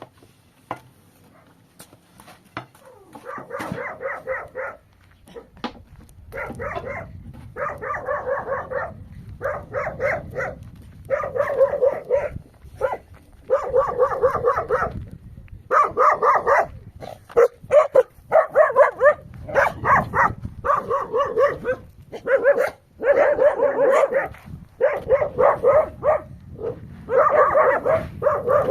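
An animal crying out over and over, in pitched calls about a second long with short pauses between them.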